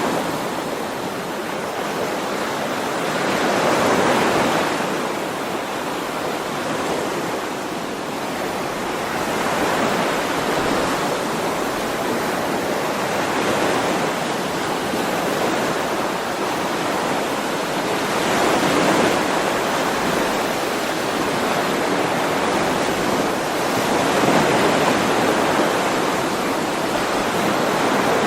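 Ocean waves washing ashore, the surf swelling and easing back every four to six seconds in a steady rhythm.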